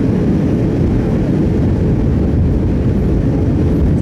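Airbus A319 cabin noise in flight: a steady low rumble of engine and airflow with a faint constant hum.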